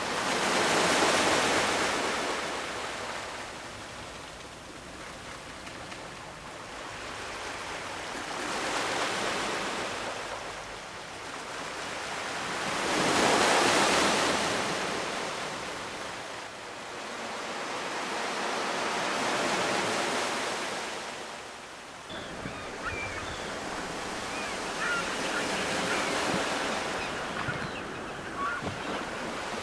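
Ocean surf washing onto the shore in slow swells, each wave building to a hiss and falling away, the loudest about halfway through. A little after two-thirds of the way in the wash drops off suddenly and goes on as a steadier hiss with faint small high ticks.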